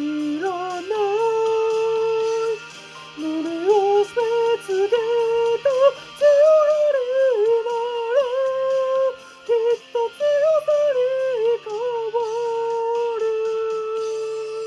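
Music: a J-pop ballad with a voice singing long, wavering held notes over a karaoke backing track.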